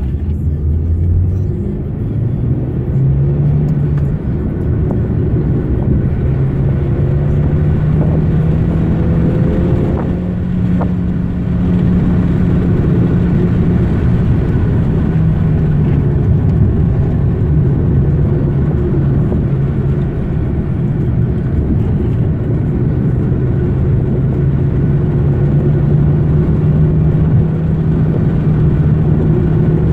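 Mazda 323 1.3's four-cylinder petrol engine heard from inside the cabin on the move, over steady road and tyre rumble. The engine note climbs and drops several times as the car accelerates and eases off through the bends.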